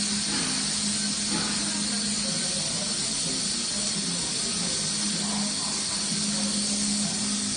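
TIG welding arc hissing steadily, with a low hum underneath.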